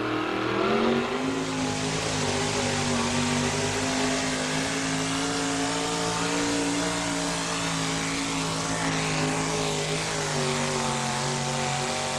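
A 604-cubic-inch V8 in a 1986 Chevrolet four-wheel-drive pulling truck runs at full throttle dragging the pulling sled. Its pitch climbs over about the first second and a half, then holds high and steady. The announcer suspects the engine lost some of its left cylinder bank on this pull.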